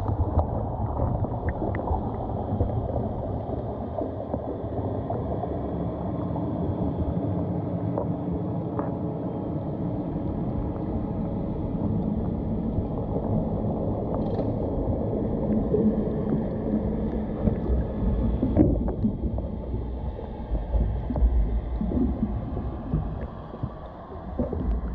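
Muffled underwater sound picked up by a GoPro on a snapping turtle's shell as the turtle swims: a steady low rush and gurgle of water, swelling a little toward the end.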